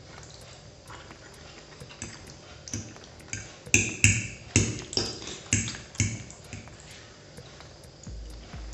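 Close-miked eating sounds of thick pasta in sauce: a run of sharp wet mouth smacks about two a second while chewing, loudest midway.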